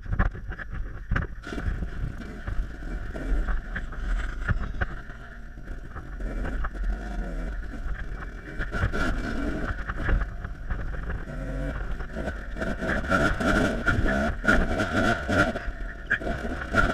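Off-road dirt bike engine running at low revs, its note rising and falling with the throttle, with scattered knocks and clatter from riding over rough ground.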